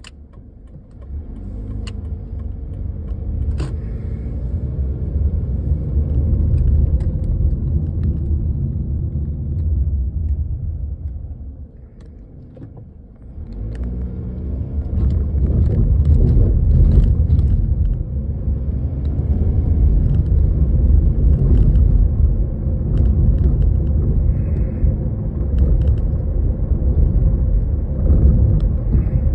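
Toyota Estima ACR55W minivan on the move, heard from inside: steady low road and engine rumble that dies down almost to a stop about twelve seconds in, then builds again as it pulls away. Faint light clicks come now and then.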